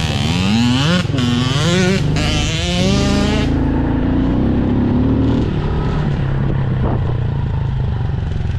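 Dirt bike engine revving up through the gears, its pitch climbing and then dropping at each shift about three times, then settling into steadier, lower running.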